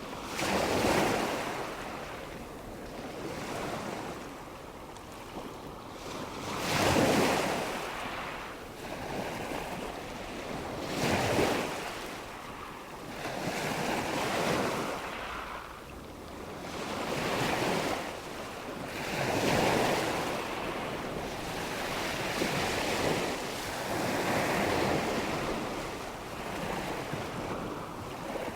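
Ocean waves washing onto a shore, each one swelling and fading every few seconds in a steady, unhurried rhythm.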